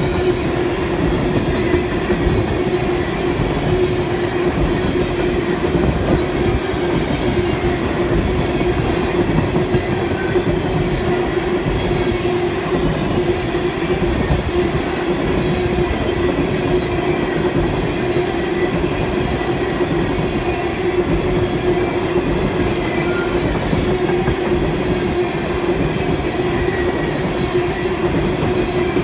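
A freight train's cars rolling steadily past on the rails, a continuous clatter of wheels over the rail joints with a steady ringing hum.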